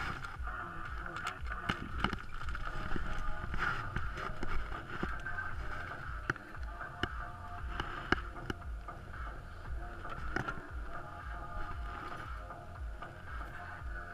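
Car engine running, heard from inside the cabin as the car backs out, with scattered clicks and knocks from handling inside the car.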